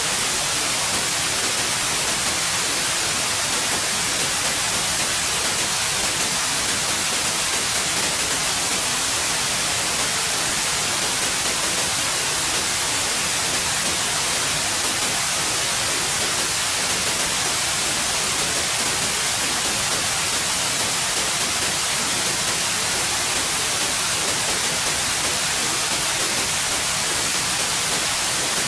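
Steady white noise: an even hiss, constant in level, with no changes or events.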